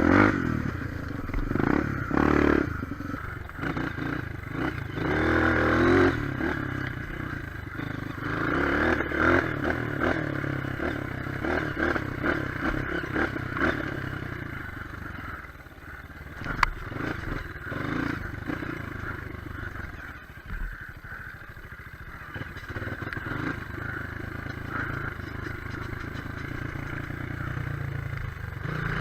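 Single-cylinder trail motorcycle engine running, its pitch rising and falling as the throttle is opened and closed, with rattling and scraping from the bike over rough ground. A single sharp click sounds a little past the middle.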